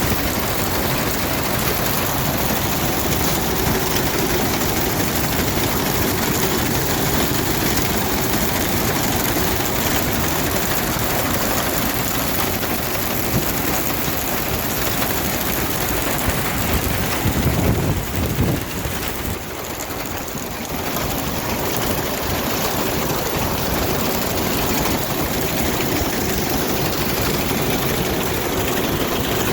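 Vintage farm tractor engine running steadily as it pulls a binder cutting corn. It briefly swells louder about two-thirds of the way through, then eases back.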